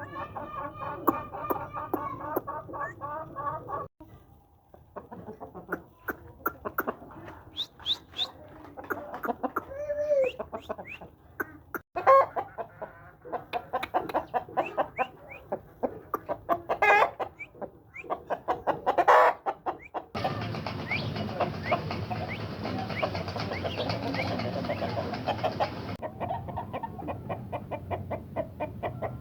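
Aseel chickens clucking in rapid repeated bursts, across several short clips joined with abrupt cuts.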